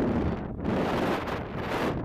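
Strong wind buffeting the microphone as a dense low rumble, easing briefly twice.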